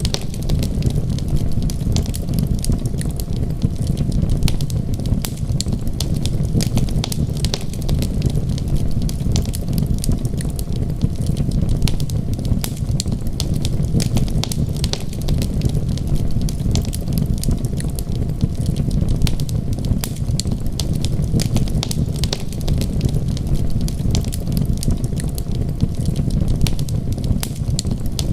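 Wood fire crackling with frequent small, sharp pops over a steady low rumble.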